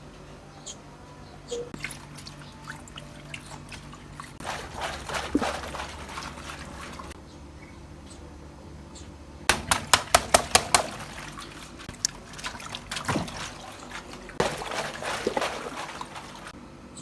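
Water pouring and splashing in three bursts, with a quick run of sharp clicks in the middle burst.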